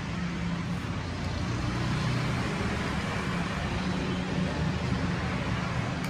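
Steady background road-traffic noise: a low rumble under an even hiss, with no distinct events.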